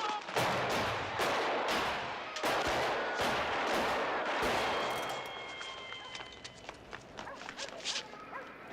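Rapid gunfire: a long string of shots fired close together, dense for about five seconds, then thinning to scattered shots and fading.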